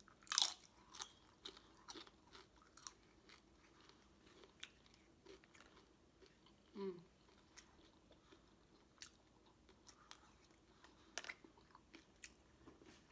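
Close-up eating sounds: chewing, with many short wet mouth clicks, of a chicken quesadilla being eaten. A single brief falling vocal hum about seven seconds in.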